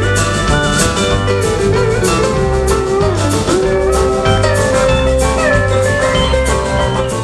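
A live rockabilly band playing an instrumental passage: drums keep a steady beat under bass and a lead guitar line with sliding notes.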